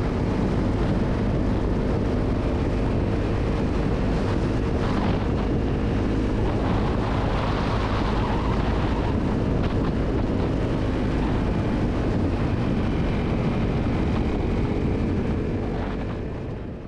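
Motorcycle engine running steadily at cruising speed, mixed with wind rushing over the microphone while riding; the sound fades out near the end.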